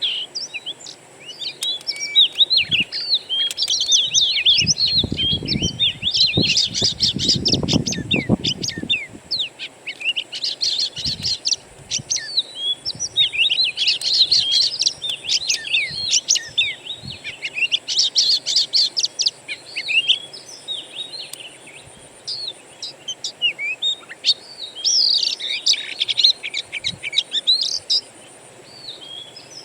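Wild songbirds singing: rapid, varied chirps and whistled phrases that come and go in bursts. A low rumble is heard about five to nine seconds in, with a few soft low thumps and a faint steady high tone underneath.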